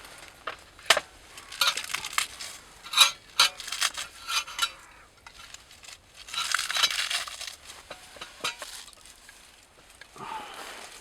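Camp cookware and utensils being handled: a run of sharp clinks and clatter, then a burst of rustling, with a few scattered taps near the end.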